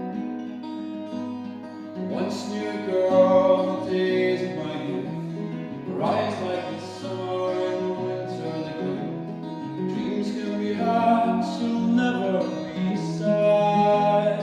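Acoustic guitar playing, with chords strummed every few seconds and left to ring.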